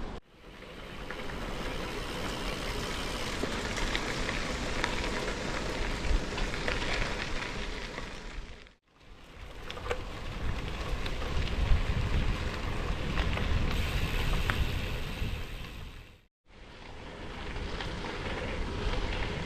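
Strong wind buffeting the microphone, a rough rumbling roar with fine crackling, in three stretches broken by sudden brief drops to silence, about a second, nine seconds and sixteen seconds in.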